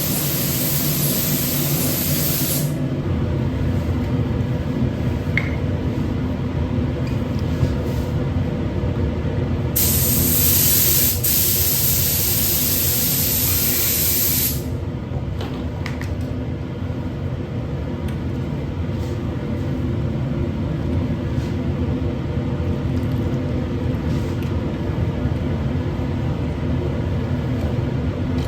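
Paint spray gun hissing in two bursts, one short at the start and one of about five seconds near the middle, over a steady low machine hum.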